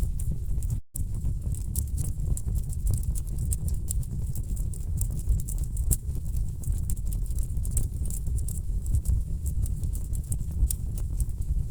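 Wood fire burning in a fireplace: a steady low rumble of burning logs with frequent, irregular crackles and pops. It cuts out briefly about a second in.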